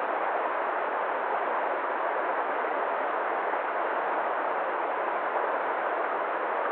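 Steady, even rushing noise at a constant level, with no separate events.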